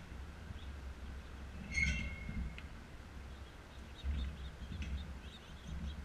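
A bird calls once about two seconds in, a short note ending in a brief held whistle, with faint high ticks later, over a low rumble.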